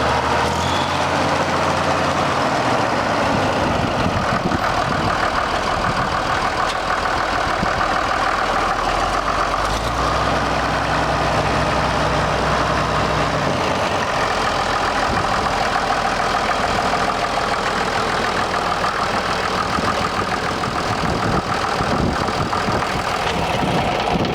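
1965 Case 930 tractor engine running steadily at idle.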